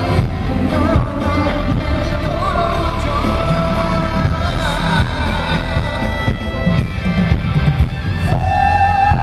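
Live pop music at a concert, recorded from the audience: a male vocal melody sung over a heavy bass backing, with a long held note near the end.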